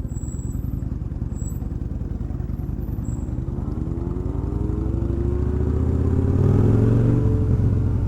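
A motorcycle engine rumbling, then rising in pitch and getting louder from about halfway as it accelerates. It is loudest near the end.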